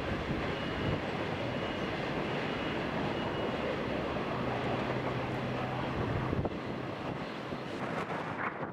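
Passenger train carriages rolling past on the track with a steady, dense rumble and rattle. It eases off about six and a half seconds in and falls away sharply at the end, as the last of the train goes by.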